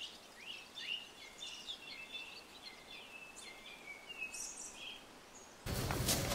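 Several birds singing over a quiet rural background, with short chirps, rising whistles and trills. Near the end the sound cuts abruptly to a louder, steady rush of noise.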